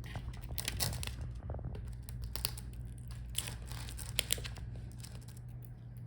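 Light handling noise from laptop display parts being worked by hand: crinkly rustling and a few small sharp clicks, over a steady low hum.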